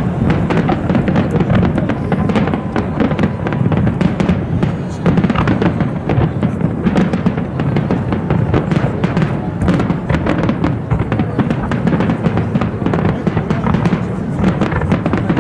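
Aerial fireworks bursting in quick succession: a dense, continuous run of cracks and booms, with music playing beneath.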